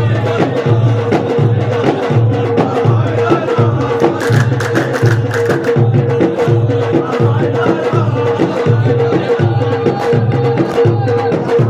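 Ahwach folk music: deep frame drums beating a steady pulse about twice a second, with sharp claps or strikes between the beats and a steady held tone above them.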